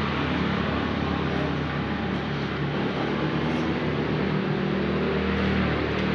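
A steady mechanical hum with a low pitch, under an even rushing noise, like a motor or engine running continuously.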